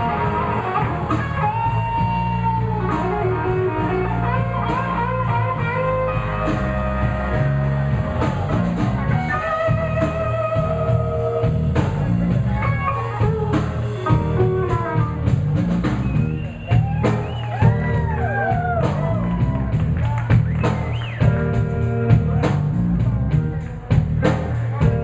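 Live blues band playing an instrumental passage: guitar leads with bent notes over a bass line and a steady drum beat.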